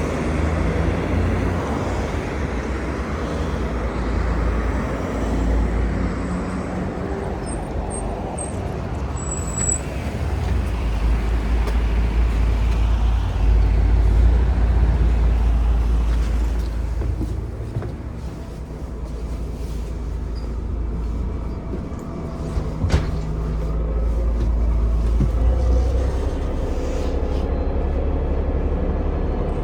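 Steady low rumble of a bus ride heard from inside, engine and road noise rising and falling a little. A few short high-pitched beeps sound around eight to ten seconds in, and a sharp click comes a little after twenty seconds.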